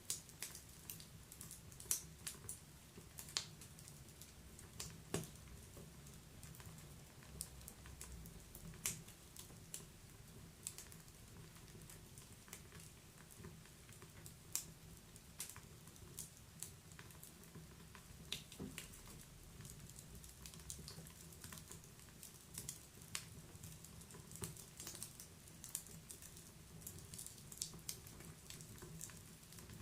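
Wood fire burning in a fireplace, crackling with irregular sharp pops and snaps of varying loudness over a faint steady low rumble.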